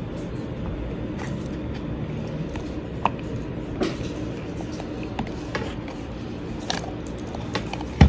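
Clear plastic parts of a wearable breast pump being handled, giving scattered light plastic clicks and taps over a steady low background rumble, with the sharpest knock right at the end.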